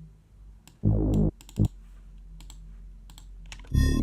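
Mouse clicks and computer-keyboard taps, with a short deep synth bass note sounding about a second in and a brief second one just after. Near the end the beat starts playing: a deep bass note under a high, bell-like melody.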